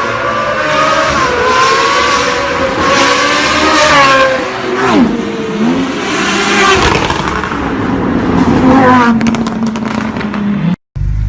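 Loud car exhaust as the engine revs up and down several times, its pitch rising and falling, then settles to a steady low note. It cuts off abruptly near the end, and a low steady engine idle follows.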